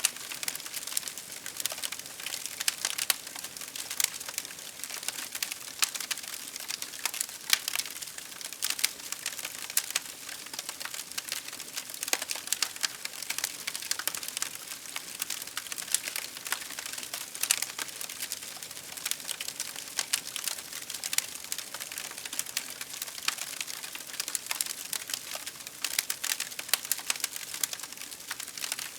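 Wood fire crackling steadily, with a dense run of small sharp pops and snaps over a soft hiss.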